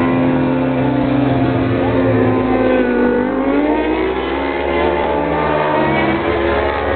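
Superbike racing motorcycle engines running at high revs, several pitches at once. The pitch dips about three seconds in, then climbs again.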